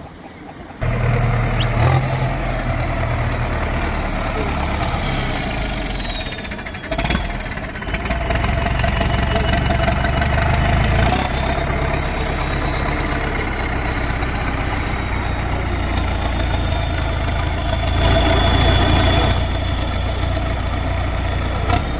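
Heavy diesel engines running steadily, louder for a moment near the end.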